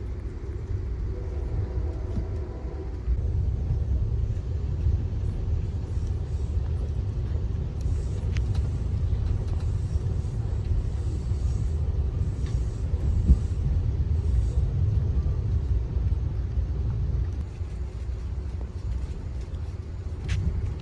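Steady low rumble of a moving passenger train heard from aboard, with a faint steady hum and a couple of sharp clicks.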